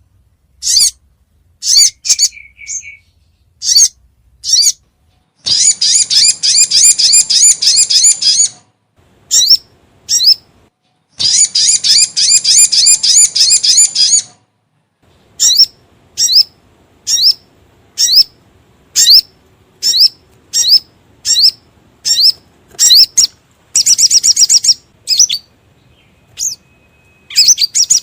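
Crimson sunbird (sogon) calling: sharp, high chirps, some single and some in quick runs, broken by two long rapid trills and one shorter trill near the end. It is a recorded call played as a lure to bring the birds in.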